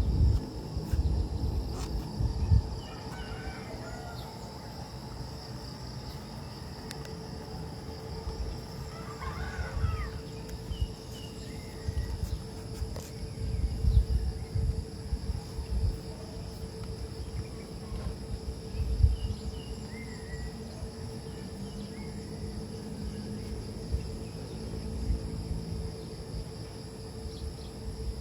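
Outdoor rural ambience: a steady high insect drone with scattered short bird calls, the most prominent about nine seconds in, over irregular low rumbles.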